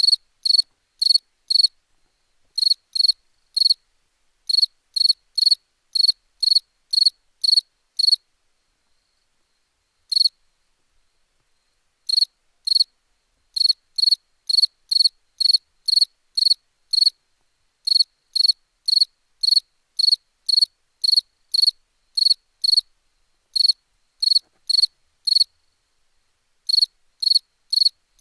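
A cricket chirping at night, short clear chirps at about two a second, with a few pauses of a second or more between runs.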